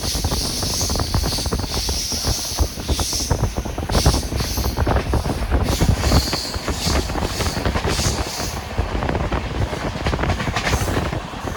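Brindavan Express passenger train running at speed, its wheels rumbling and clattering on the rails, with a rush of wind that eases off near the end.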